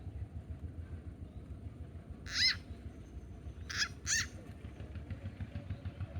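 Frog giving distress screams: three short, high calls that rise and fall in pitch, one about two seconds in and a close pair about a second and a half later, the cry of a frog seized by a snake. A steady low rumble runs underneath.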